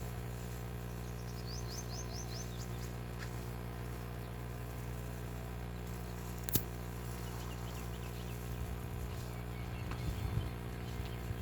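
Steady electrical hum throughout. About two seconds in comes a quick run of six or so high chirps, and later a single sharp click and a few soft low knocks near the end.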